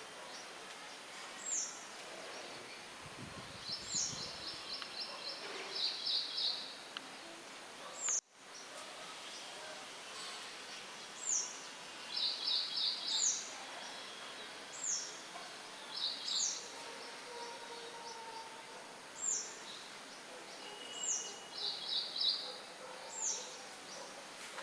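Songbirds calling over a steady hiss of light wind: a short, high call sliding downward, repeated every second or two, and bursts of rapid chirps. The sound cuts out briefly about eight seconds in.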